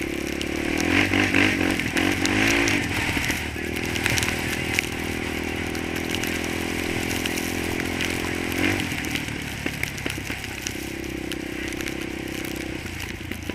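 Single-cylinder four-stroke ATV engine revving up and down a few times, then running at a steady speed. The revs change again about two-thirds of the way through.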